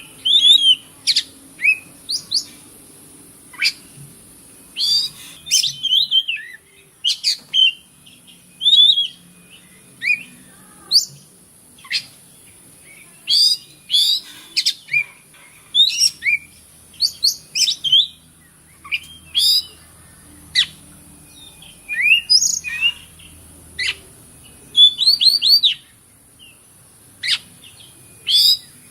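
Oriental magpie-robin singing: short, sharp whistled notes and quick sweeping chirps in irregular bursts with brief pauses between, over a steady faint high hiss.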